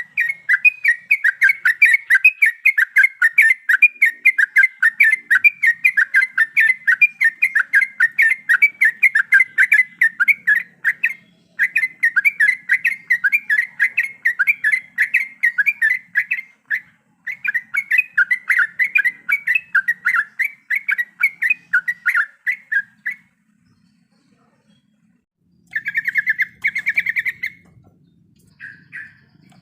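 Yellow-vented bulbul (trucukan) singing a long, rapid rolling run of short repeated notes, several a second. The run has two brief breaks, then stops for a couple of seconds before a short final burst.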